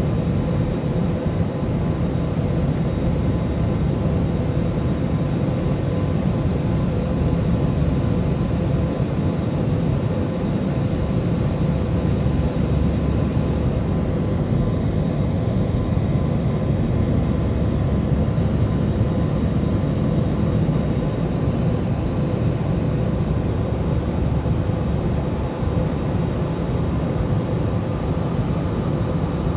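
Steady drone of an airliner's engines and rushing air heard inside the passenger cabin, with a faint steady hum running through it.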